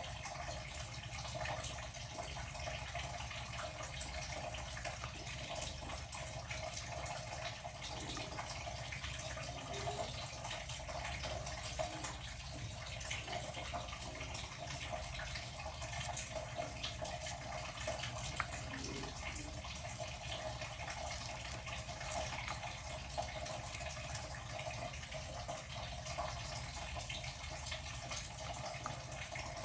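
Water running steadily from a tap into a sink, with small splashes and drips.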